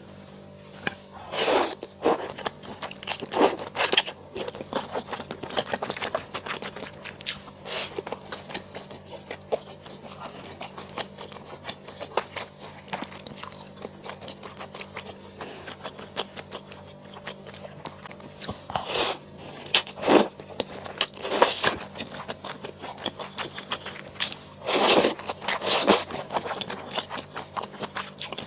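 Close-miked eating of mala xiang guo: crunchy bites and chewing, with loud crunches coming in clusters a few times and softer chewing clicks in between.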